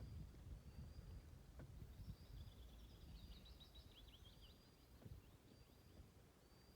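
Faint birdsong: thin high whistles recurring, with a quick burst of twittering chirps about two to four seconds in, over a low rumble.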